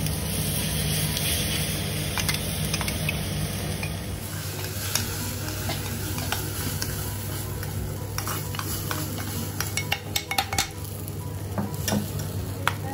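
Oil tempering of cashews and green chilli sizzling in a small pan as a spoon stirs it. About four seconds in the sizzle gives way to a ladle and spoon scraping and clicking against a steel bowl as mashed potato is mixed.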